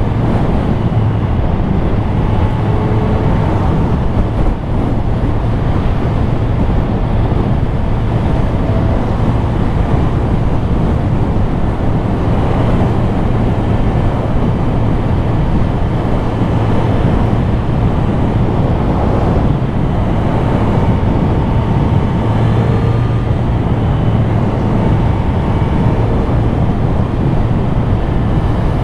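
Triumph Street Triple RS three-cylinder engine running at a steady road speed, its low hum mixed with a constant rush of wind and road noise.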